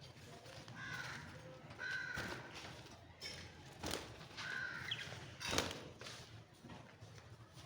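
Pet parrots in a cage giving a few short calls, with two sharp clicks or knocks in between.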